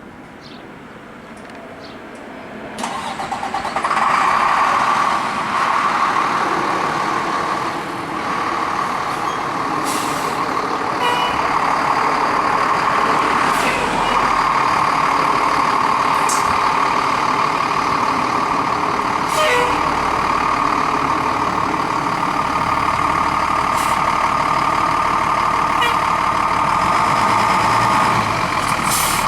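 Fire engine's diesel engine, quiet at first, then coming up loud about three seconds in and running loud and steady as the rig pulls out on a call.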